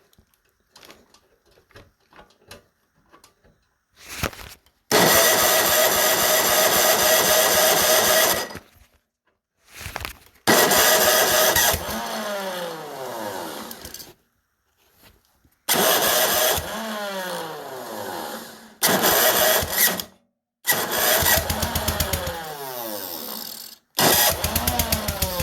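Old Ariens snowblower engine being cranked in repeated start attempts during a cold start at about −2 °F with 20W-50 oil. It catches in about six loud bursts of a few seconds each, and after several of them the pitch falls away as it spins down.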